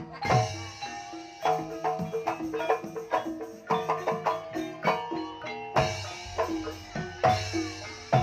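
Instrumental passage of Banyumasan traditional music: tuned mallet percussion playing a busy run of struck, ringing notes over repeated low drum strokes, with no singing.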